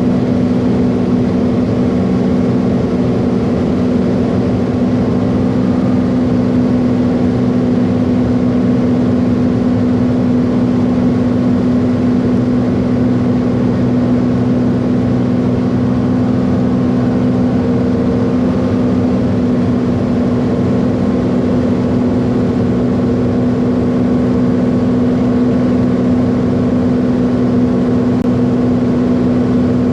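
Piston aircraft engine and propeller droning steadily at cruise power, heard from inside the cabin, with an even low hum that does not change.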